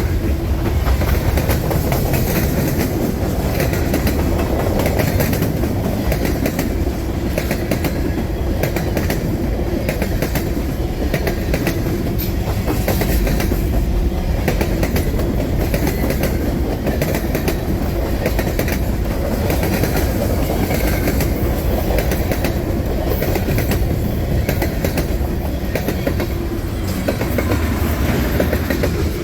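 Long freight train's cars rolling steadily past at close range: a heavy low rumble with a constant clickety-clack of wheels over the rail joints.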